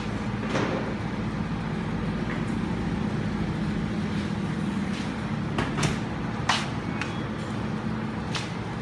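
A steady low machine hum, with a few sharp clacks and knocks over it.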